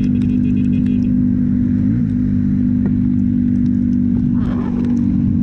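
Motorcycle engine running at a steady cruise, heard from the rider's seat, with a brief pitch wobble about two seconds in.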